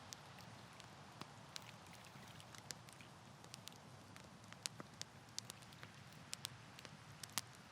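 Wood campfire crackling: irregular sharp pops and ticks, a few louder than the rest, over a soft steady hiss.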